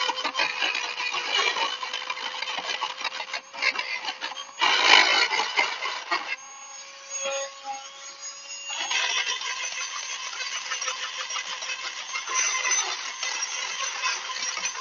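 Rapid scraping and rasping of a tool worked against metal during brake work, with a louder, denser spell about five seconds in and a quieter stretch after it.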